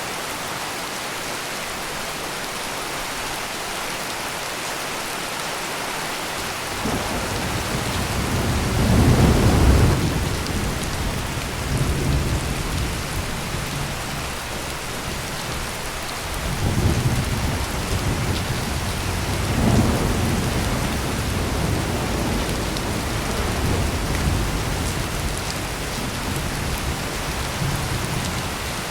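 Heavy rain pouring steadily, with thunder rolling in about seven seconds in and peaking a few seconds later, then a second long rumble building from about sixteen seconds in and slowly dying away near the end.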